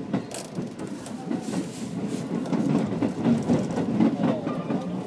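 Train wheels rumbling over the rails, heard from inside the carriage, with sharp clacks as the wheels cross joints and points. The rumble gets louder after the first second or so.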